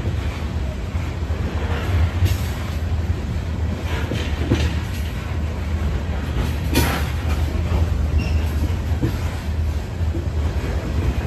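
Loaded coal hopper cars of a freight train rolling past: a steady low rumble of wheels on rail, with a few brief sharper metallic sounds, the loudest about seven seconds in.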